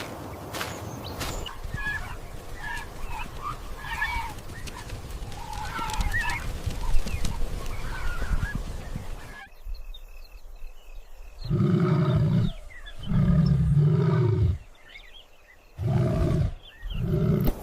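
Short chirping calls over a noisy background with scattered clicks, then, after a sudden cut about halfway, four loud, low, drawn-out animal calls.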